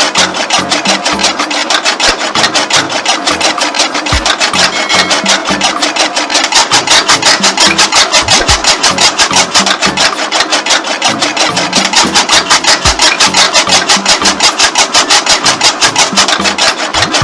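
Small engine running steadily, with a fast, even train of exhaust pulses.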